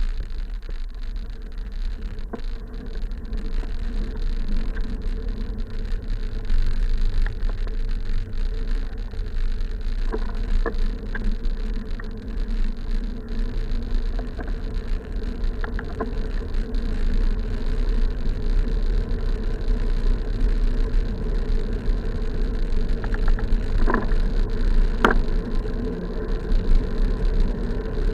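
Wind rumbling on the microphone while riding along a road, under a steady buzzing hum, with a few faint clicks around ten seconds in and twice near the end.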